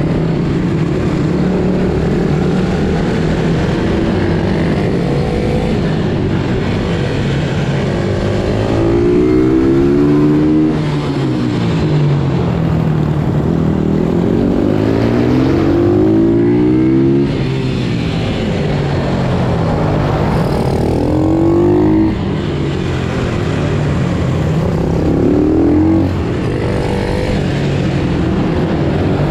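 Pit bike engines being ridden hard, the pitch climbing under throttle several times and falling back each time the throttle closes, with more than one engine overlapping.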